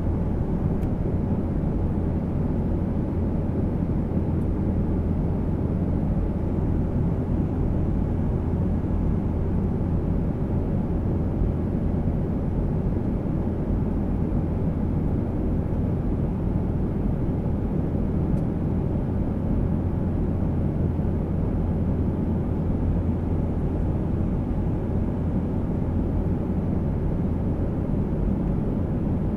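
Steady low rumble of a jet airliner's engines and airflow heard inside the passenger cabin in flight, unchanging throughout.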